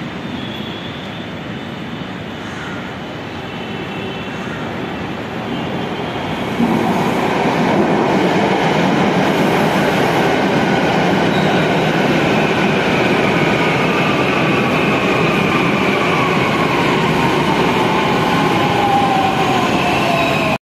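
Mumbai Metro train running, getting louder about six and a half seconds in, with a whine that falls steadily in pitch through the second half.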